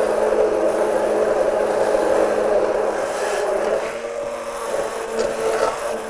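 Electric blender motor running steadily with a constant whine, mixing the water phase of a face cream with a powdered emulsifier. It dips slightly in loudness about four seconds in.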